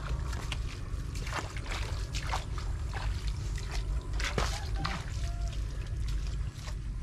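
Shallow muddy water sloshing and trickling as two electrofishing poles are swept through a ditch. Irregular short sharp splashes and clicks sound over a steady low rumble.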